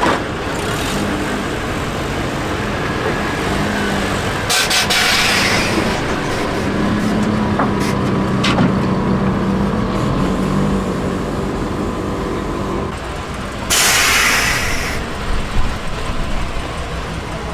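Custom mini truck engines running on the road, with two loud hisses of air about four and a half seconds and fourteen seconds in.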